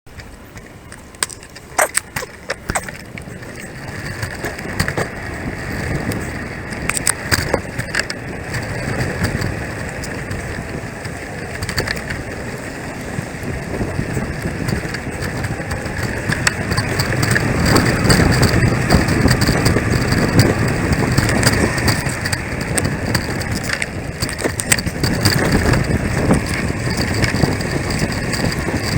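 Bicycle being ridden: a steady rumble of the tyres on the road with sharp rattling clicks, and a low rumble that grows louder from about halfway through.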